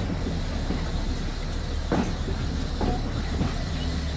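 1926 Wason-built Springfield Electric Railway trolley car 16 rolling along the track: a steady low rumble with a few sharp clicks from the wheels on the rails.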